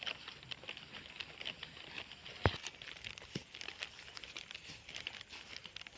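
A single sharp crack about two and a half seconds in, typical of an air-rifle shot, over faint rustling and scattered light ticks.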